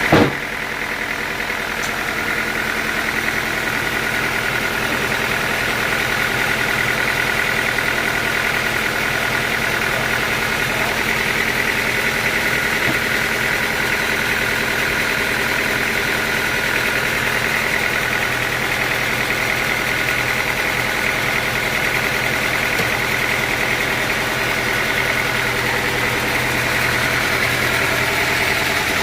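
Sawmill machinery running steadily with a constant whine over a low hum, after one sharp knock right at the start.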